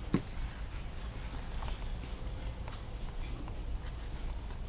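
Insects trilling steadily in one high, unbroken tone, with a single sharp knock just after the start and faint scattered clicks of handling.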